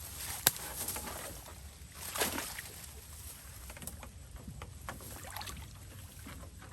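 Water splashing and sloshing in shallow water, with a sharp knock about half a second in and a larger splash a little after two seconds, followed by small scattered splashes and drips.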